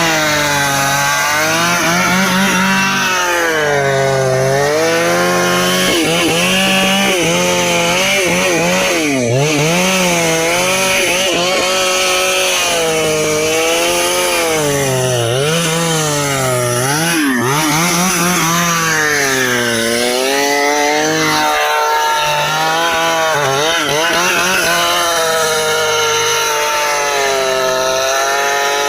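Stihl two-stroke chainsaw cutting through dry ipê hardwood, running loud and continuous, its engine note repeatedly dipping under load and picking up again.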